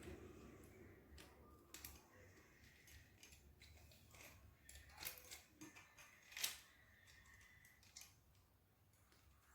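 Near silence broken by a few faint, sharp clicks and taps, the loudest about two thirds of the way through: small hard objects such as tools or engine parts being handled.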